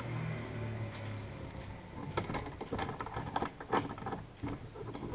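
Handling noises as hardware is worked by hand: scattered clicks, knocks and scrapes that grow busier about two seconds in.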